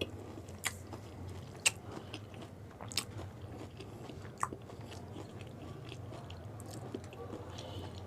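Crisp pani puri (gol gappa) shells being bitten and chewed: a few sharp cracks in the first half, then quieter chewing, over a steady low hum.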